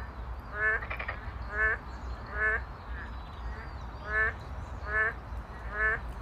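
An animal call, a short pitched note repeated at an even pace about every 0.8 seconds, over a steady low hum and faint high chirps.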